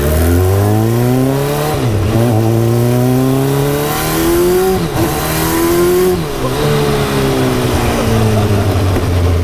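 Turbocharged Suzuki Hayabusa inline-four engine of a Reliant Bond Bug three-wheeler accelerating hard. The revs climb and then drop sharply at three quick clutchless quickshifter upshifts, about two, five and six seconds in. After that the revs fall away steadily as it slows.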